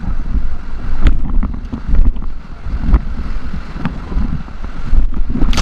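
Wind buffeting the microphone over the rushing water of river rapids around a rafting boat, swelling about once a second, with a sharp knock near the end.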